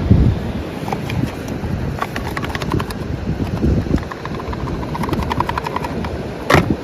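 Wind buffeting the microphone with a rough, uneven rumble, over a run of small rapid clicks and one sharp click near the end.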